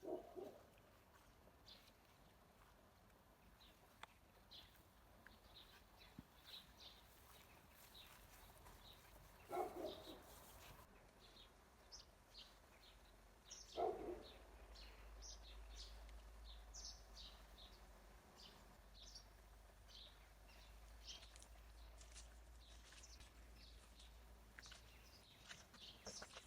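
Small birds chirping and twittering faintly throughout, with many short high calls. Two brief louder, lower sounds stand out, about ten and fourteen seconds in.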